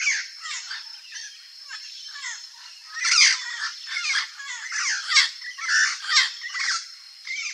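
Turquoise-fronted parrots (Amazona aestiva) calling: a rapid, unbroken series of squawking calls with quick sliding notes, louder from about three seconds in.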